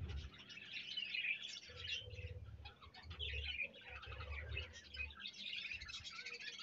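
Many budgerigars chirping and chattering in a colony aviary, a busy, continuous twitter, with a few low, muffled bumps underneath.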